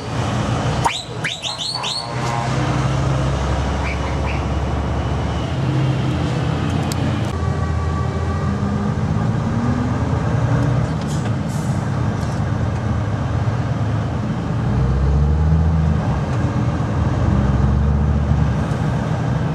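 Heavy truck diesel engine running under way, its pitch stepping up and down as the truck accelerates and changes gear, heard from inside a truck cab. A few short rising whistle-like sweeps sound in the first two seconds.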